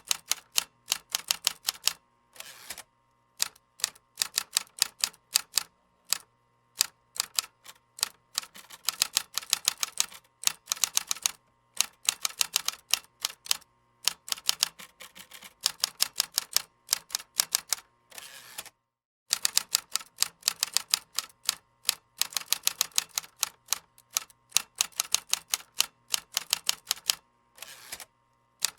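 Computer keyboard typing: rapid runs of key clicks in bursts of a few seconds, broken by short pauses.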